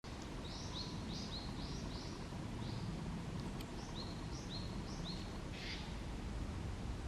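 Small songbird giving a quick series of short, high chirps, several a second, over a steady low background rumble, with a brief hissy note about five and a half seconds in.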